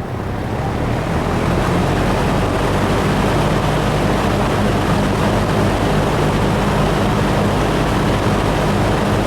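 1971 Electrohome 652-1-C 20-inch box fan starting from off to high speed. Its air rush and low motor hum build over the first second or so, then run steady. The sound cuts off suddenly at the very end.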